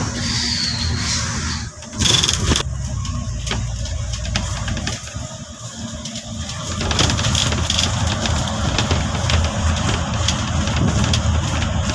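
City street traffic: vehicle engines running and passing as a steady low rumble, with a loud noisy burst about two seconds in.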